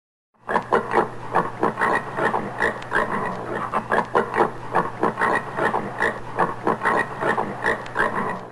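Common warthog giving a rapid series of grunts, about four a second, for roughly eight seconds. It starts suddenly just after the beginning and cuts off at the end.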